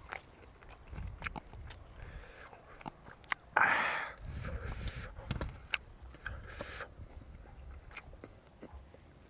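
A person chewing roast duck, with wet mouth smacks and clicks. A brief, loud rush of noise comes about three and a half seconds in.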